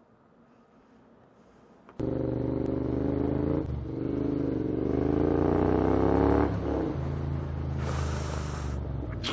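Motorcycle engine running, coming in abruptly about two seconds in after near silence; its pitch dips, then climbs as it accelerates and drops back a little before the end. A brief burst of hiss sounds shortly before the end.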